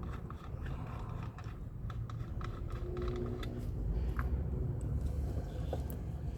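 Scattered light clicks and taps of hands working battery cables and hardware while connecting the motorhome's house batteries, over a steady low rumble.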